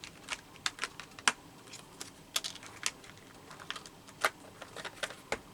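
Irregular light clicks and taps of small art supplies, such as pens or markers, being handled and set down on a tabletop.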